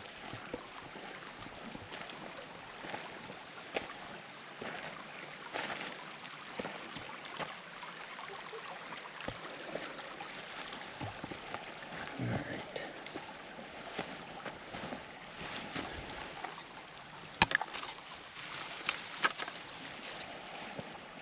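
Trout stream running steadily, with scattered clicks and knocks on top, the loudest of them a few seconds before the end.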